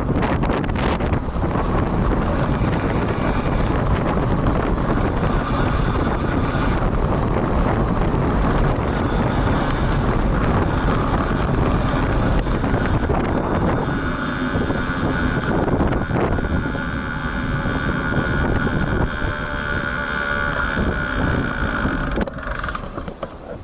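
Wind buffeting an action camera's built-in microphone on a moving road bike in strong wind and rain, a loud, steady rush of noise. A faint steady high whine joins about halfway through, and the rush drops away near the end.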